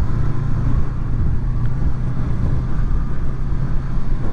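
Honda VFR800's V4 engine running at a steady pitch while the motorcycle is ridden, with wind and road rumble underneath.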